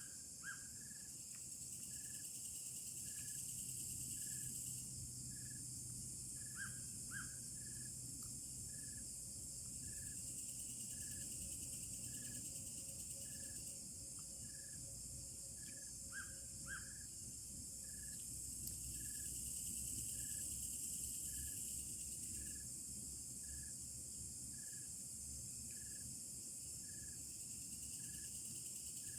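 Forest insects chirring steadily, with a short call repeating about once a second and a few quick falling bird chirps, notably a pair about a third of the way in and another about halfway. Under it a steady low drone, which the camper attributes to a palm-oil mill's machinery about 15 km away.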